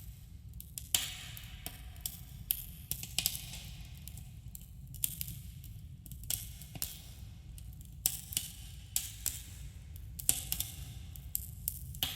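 Wood campfire crackling, with irregular sharp pops and snaps, a few louder than the rest, over a steady low rumble, with a slight echo from the cave.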